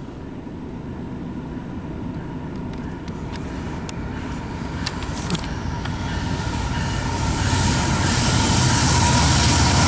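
CSX intermodal freight train approaching, its rumble growing steadily louder, with a few short clicks about halfway through and a faint high steady tone coming in near the end.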